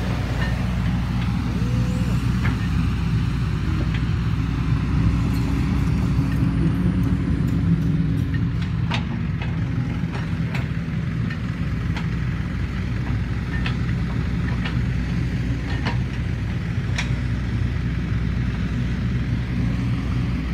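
A large diesel engine running steadily at a constant speed, with a few sharp clicks or knocks over it.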